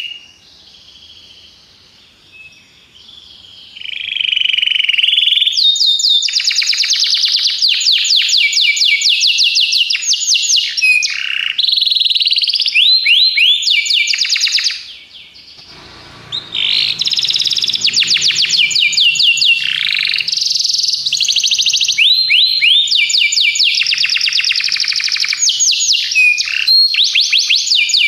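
Domestic canary singing: long runs of fast trilled notes and rolls, high-pitched, breaking off at the start and again for a moment about halfway through, then picking up again. This is master canary song of the kind used to tutor young canaries.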